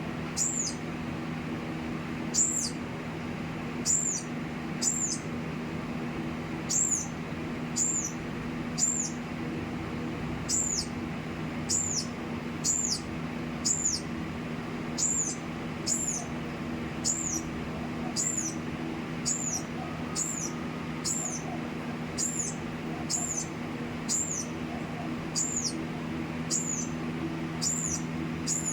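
A small bird giving short, high chirps over and over, about one a second, over a steady low hum.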